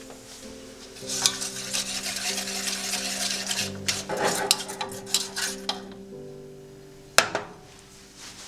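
A utensil stirring and scraping in a pot for several seconds, then a single sharp clink about seven seconds in, over soft background music.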